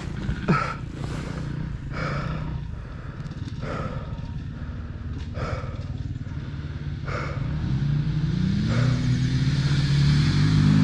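Kawasaki KLX230R dirt bike's single-cylinder engine running at low revs, then revving higher over the last few seconds as it accelerates. Over it, the rider's heavy breathing comes about every second and a half.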